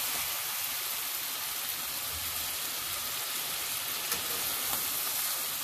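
Chicken pieces, potatoes, tomatoes and dried plums sizzling steadily as they fry in a pan, while a spatula turns them, with a faint click or two.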